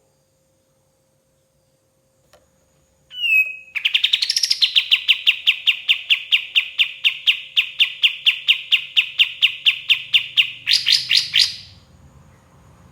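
Kapas tembak songbird singing: a short whistled note, then a long fast trill of repeated down-sweeping notes, about five a second, for some seven seconds, ending in a few louder, higher notes.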